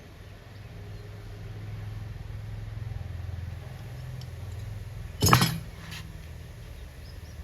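A hard metal object set down or knocked with one sharp ringing clink about five seconds in, then a lighter click, over a low rumble of handling.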